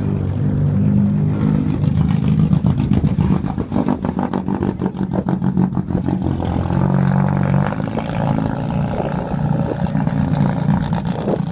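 Nissan 240SX with a loud aftermarket exhaust, the engine running with a steady low exhaust note. The note breaks into a rapid pulsing rattle for a few seconds near the middle.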